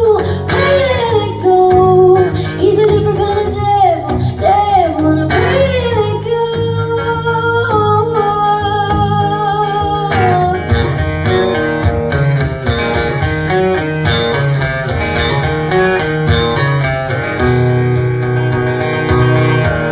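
Live band music. A woman's voice sings long, bending lines over guitar and band for about the first half. Then the voice drops out and the guitar-led band plays on alone.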